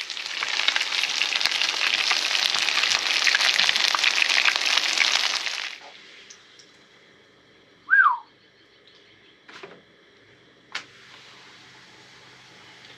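Beer-battered fish frying in hot oil in a pan, a loud crackling sizzle that cuts off suddenly about six seconds in. After that it is much quieter, broken by a single loud downward-sliding whistled bird call about two seconds later and a few faint ticks.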